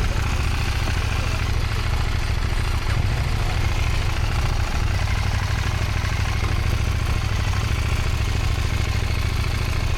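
Motorcycle engine running at low, steady revs: a continuous low rumble that dips briefly about halfway through.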